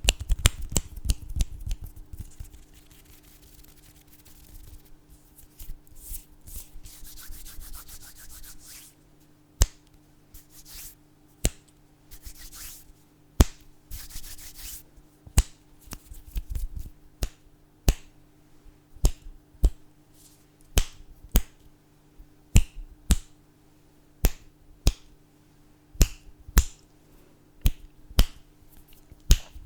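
Finger snapping close to the microphone. A quick flurry of snaps gives way to several seconds of fingers rubbing together with a soft dry hiss. Then come single sharp snaps about a second apart, coming faster near the end.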